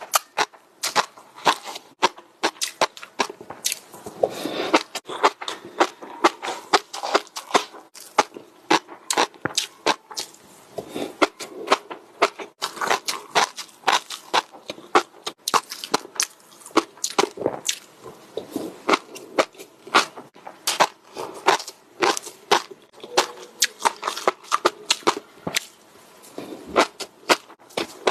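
Close-miked crunchy eating: crisp bites and chewing crunches, about two or three sharp cracks a second without a break.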